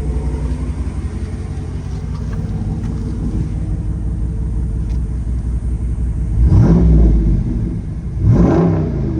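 6.4-litre HEMI V8 of a Jeep 392 idling with a deep rumble through a Borla Type S exhaust, then revved twice in quick blips, about six and a half and eight and a half seconds in, each rising and falling back to idle.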